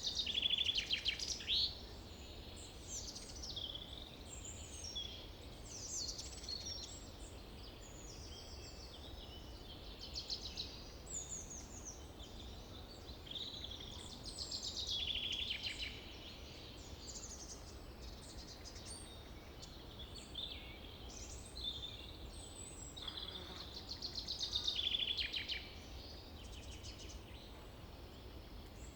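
Several small songbirds chirping and twittering in quick overlapping calls and trills, over a faint low hum.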